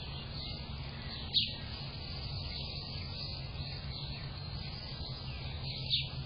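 Two short bird calls, each sweeping downward in pitch, about four and a half seconds apart, over a steady low hum and a faint haze of outdoor background noise.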